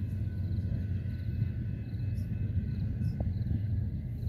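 Steady low rumble of a distant approaching train, with faint crickets chirping.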